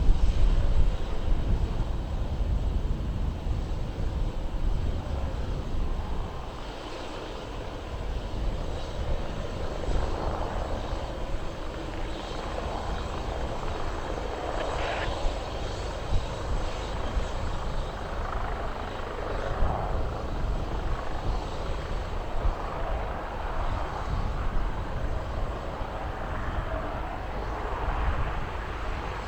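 Leonardo AW139 twin-turbine helicopter on approach to land: steady rotor and engine noise with a strong low rumble, swelling and fading in level.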